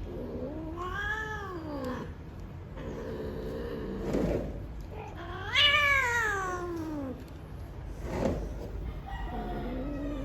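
Cats yowling while mating, the drawn-out caterwaul of a cat in heat: four long calls that rise and fall in pitch, the loudest about halfway through, with two short harsh noises between them.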